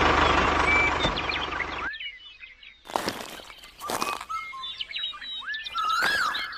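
An engine running, which cuts off abruptly about two seconds in. After that, birds chirp with short rising and falling calls, broken by a few brief bursts of noise.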